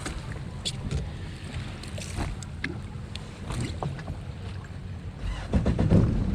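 Yamaha WaveRunner engine idling at low speed, with water splashing and slapping around the hull. The engine grows louder near the end as it is throttled up.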